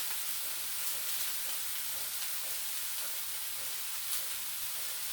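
Omena (silver fish) frying in oil with onions and tomatoes in a pan, sizzling steadily.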